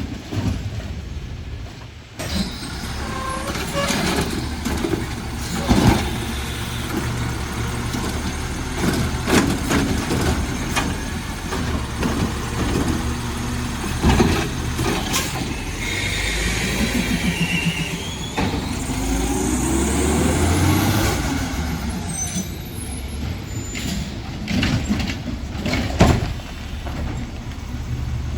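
Garbage truck's engine running steadily, with a hiss of air brakes and several loud knocks and clanks.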